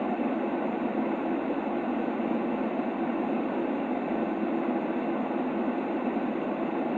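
Continuous white noise, a steady, even rushing hiss with most of its weight in the low middle range and little deep bass or treble, unchanging throughout.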